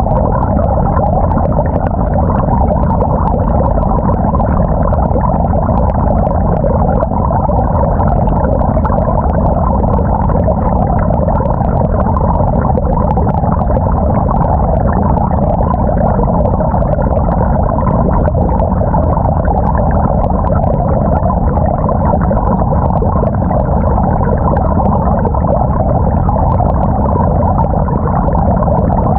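Steady, muffled churning inside a 2018 GE GTW220ACKWW top-loading washing machine. This is water and laundry moving with the agitator, heard from inside a sealed action-camera housing fixed to the agitator, which dulls the sound.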